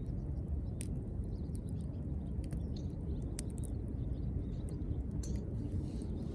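Wood fire crackling, with a few sharp, irregular pops over a steady low rumble.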